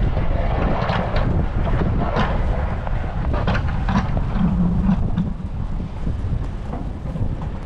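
Blizzard wind buffeting the microphone with a heavy, uneven rumble, getting somewhat quieter after about five seconds.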